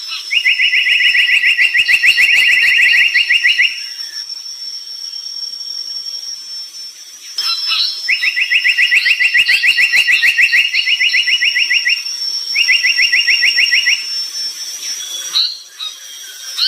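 A brown tali pocong songbird singing: three long runs of fast, evenly repeated notes, each a rapid mechanical-sounding trill lasting a few seconds, with short higher chirps in between. A steady thin high whine runs underneath.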